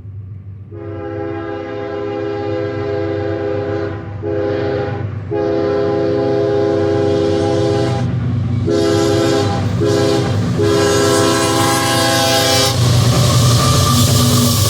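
CSX freight locomotive's air horn sounding a series of blasts, long ones and shorter ones, for the grade crossings, growing louder as the train approaches. Near the end the horn stops and the loud rumble of the passing locomotives takes over.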